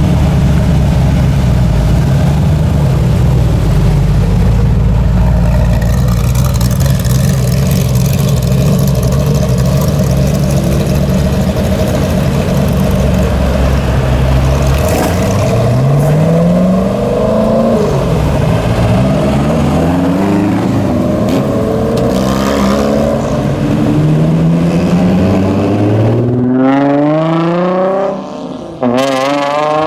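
Car engine and exhaust rumbling steadily at low revs for about fifteen seconds, then accelerating hard. A series of rising engine notes follows, each climbing and then falling back as the gears change, and the last ones near the end climb steeply to high revs.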